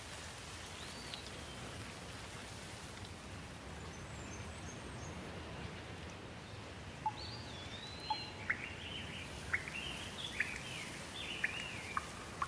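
Steady rain hiss with birds calling over it: one chirp near the start, then from about halfway a busy run of short rising and falling chirps and sharp peeps.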